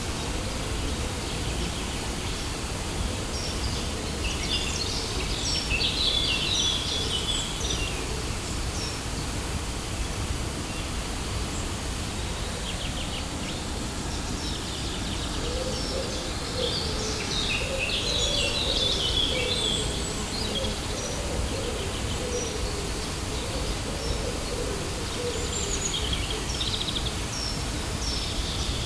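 Steady rushing of a waterfall, with small birds chirping over it now and then, most busily a few seconds in and again around the middle.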